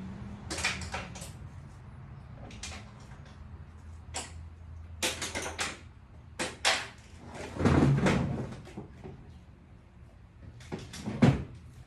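A series of knocks, clicks and clatters from hard gear being handled and set down, with a heavier thump about eight seconds in and a sharp knock near the end. A low hum fades out in the first few seconds.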